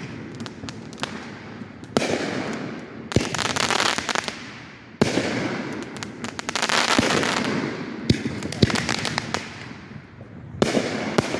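Consumer aerial fireworks bursting overhead: about five loud bangs a second or more apart, each trailing off into dense crackling.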